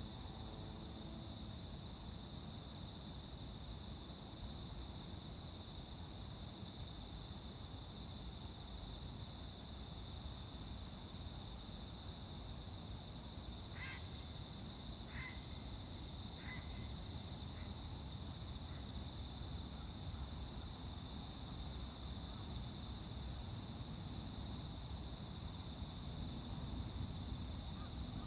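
Insects chirring steadily in two even high-pitched tones over a low outdoor rumble. About halfway through, a bird calls about five times in a row, each call fainter than the last.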